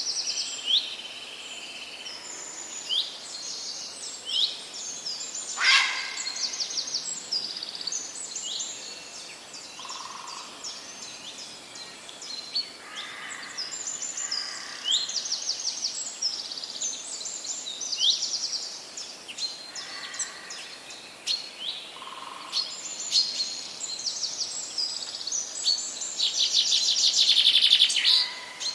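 Several birds singing and calling together, a steady stream of short, high chirps and whistled sweeps from many voices. Near the end one bird gives a loud, rapid trill.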